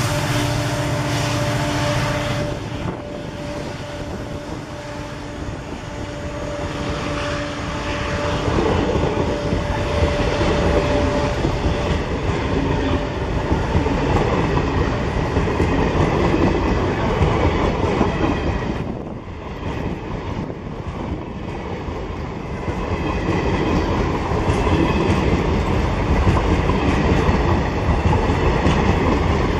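Diesel-hauled express passenger coaches rolling past at speed, their wheels clattering steadily over the rails. The departing diesel locomotive's engine hum fades away over the first few seconds.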